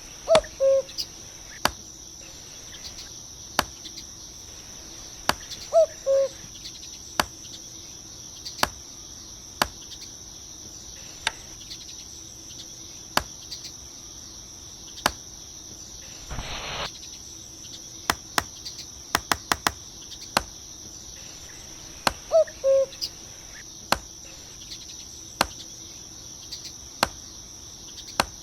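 Insects chirring steadily on one high pitch, with many scattered sharp clicks and a few short chirps.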